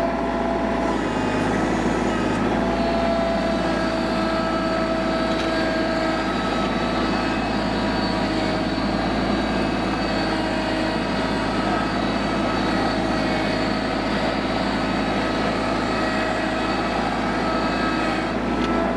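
Mahindra eMax 25 compact tractor's three-cylinder diesel engine running steadily under load while pulling an oversized scraper blade through dirt.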